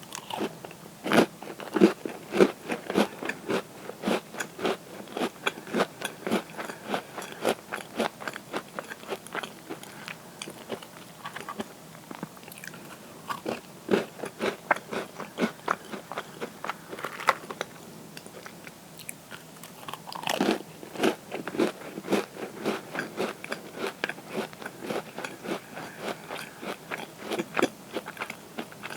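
A person biting into and chewing crisp cookies close to the microphone: a dense run of dry crunches, with louder bites about a second in, about halfway through and again about two-thirds of the way in.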